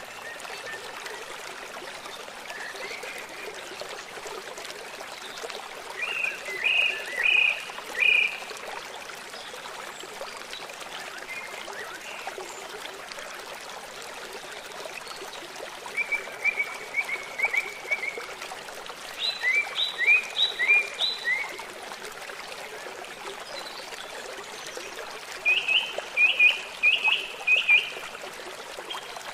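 Songbird singing short bursts of four to six quick chirping notes, four phrases spaced several seconds apart, over the steady rush of a running stream.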